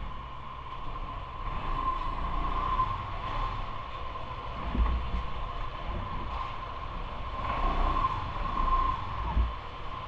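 Steady running noise of a bicycle ride: low rumble and buffeting with a thin, steady whine that swells twice.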